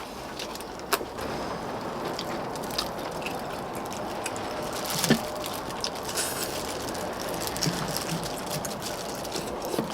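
Eating sounds at a meal of pork-bone soup: chewing and handling of food, with a few sharp clicks of utensils against bowls, the clearest about one second and five seconds in, over a steady background hiss.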